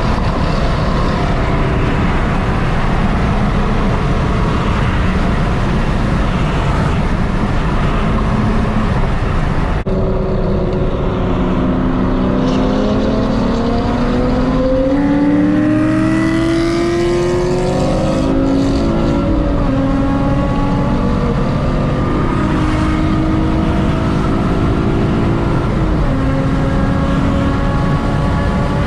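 Car engines accelerating: a steady rushing noise for the first ten seconds, then from about ten seconds in, a series of rising engine tones as cars rev up one after another.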